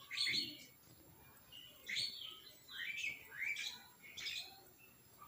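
Birds chirping: about five short, high chirps spread over a few seconds, some sliding down in pitch.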